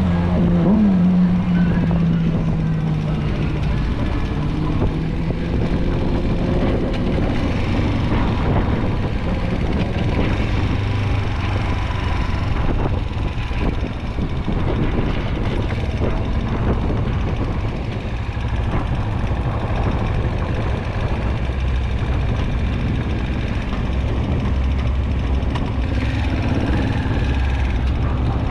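Small motorcycle engine running as the bike is ridden at low speed. The revs drop in the first two seconds, then the engine runs steadily.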